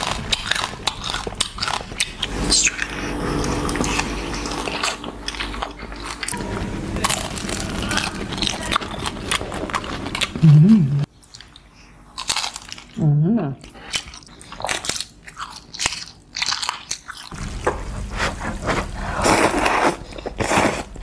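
Close-miked mukbang eating sounds: crisp bites and crunching chews of fried food, such as crackling pork skin and fried spring rolls, in a run of short clips. A couple of brief hummed "mm" sounds come about halfway through.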